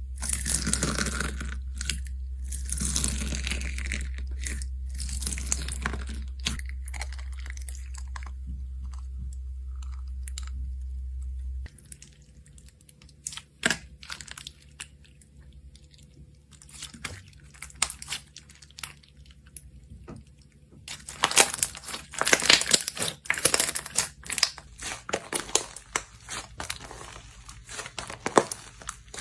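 Slime being squeezed and pressed by hand, giving dense crackling, crunchy pops. A steady low hum sits under the first part and stops suddenly about a third of the way in; the crackling then turns sparse before growing thick again near the end.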